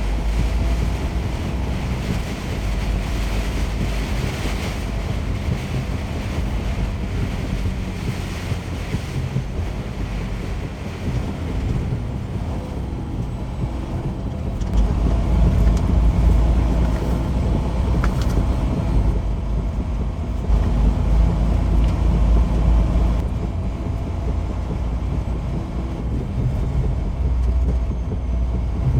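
Steady low rumble of a semi truck running, with wind buffeting the microphone; the rumble grows louder about halfway through.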